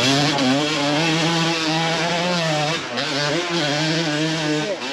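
Off-road motorcycle engine held at high revs under load, running steadily with a brief drop in revs about three seconds in before picking up again.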